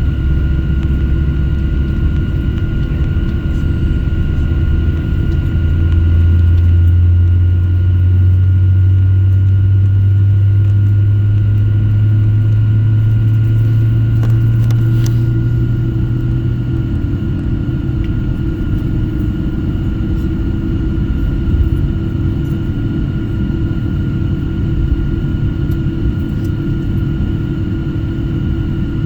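Airplane engines running at taxi power: a steady low rumble with a constant high whine. About six seconds in, a deeper drone swells and climbs slightly in pitch, then fades away by about seventeen seconds.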